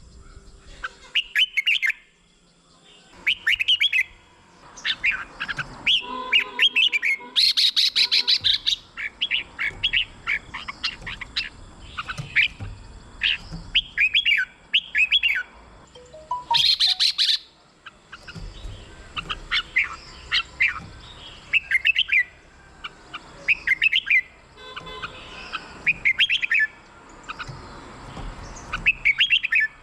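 Red-whiskered bulbul singing: loud, short phrases of quick, rising and falling whistled notes, repeated every second or two with brief pauses, and a harsher, buzzier burst twice.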